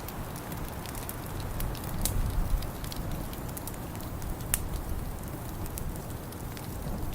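Wood fire crackling, with irregular sharp pops and snaps, over a steady low rumble that swells briefly about two seconds in.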